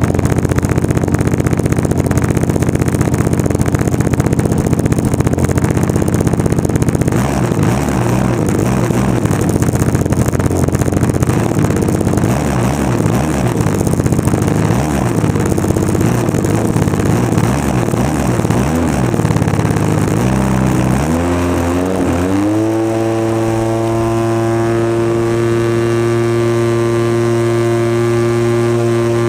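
26cc two-stroke gas engine of a radio-controlled model plane running. It holds a steady note at first, wavers unevenly from about seven seconds in, then revs up around twenty-one seconds to a high, steady full-throttle note.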